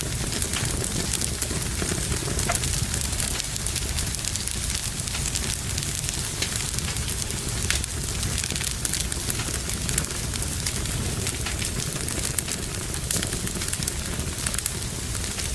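Fire burning in a fireplace, crackling with many small sharp pops over a steady low rumble.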